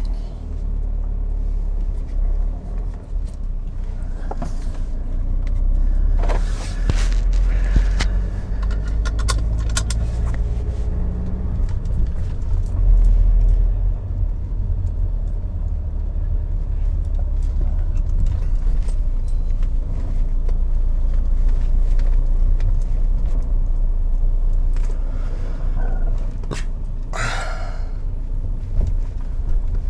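Inside the cabin of a BMW E60 5 Series on the move: steady low road and engine rumble with scattered small clicks and knocks from the car going over the road. The dash creaking from the loose strut brace is gone, now that the brace is bolted down again. A short louder rustle comes near the end.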